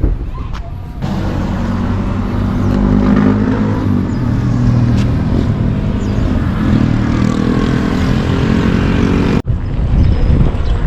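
Motor vehicle engine running, its pitch rising and falling. It cuts in abruptly about a second in and cuts off sharply near the end.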